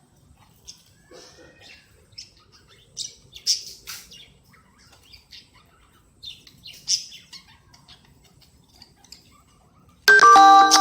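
Cockatiels giving short, scattered high chirps, then a sudden loud call with a steady pitch near the end.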